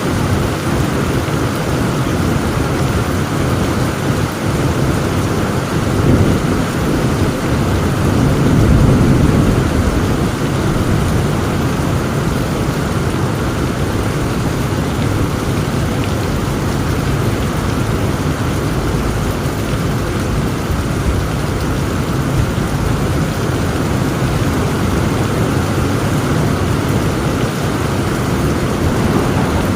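Heavy rain falling steadily, with low rolling thunder that swells briefly about six seconds in and again for a couple of seconds around the eight-to-ten-second mark.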